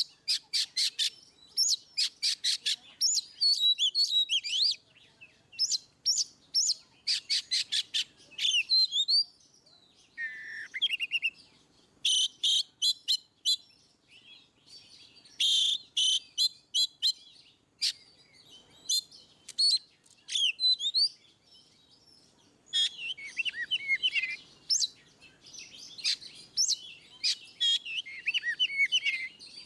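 Oriental magpie-robin (kacer) singing loudly and continuously in the 'ngeplong' style. Its phrases alternate between fast runs of repeated sharp notes and warbled, gliding whistles, with short pauses between them.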